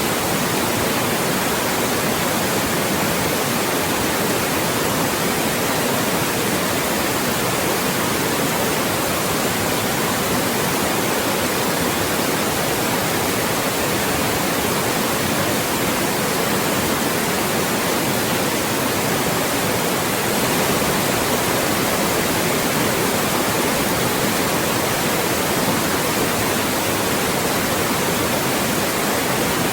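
Loud, steady white noise: an even, unchanging hiss across the whole range from low to very high, generated as a speech-masking sound.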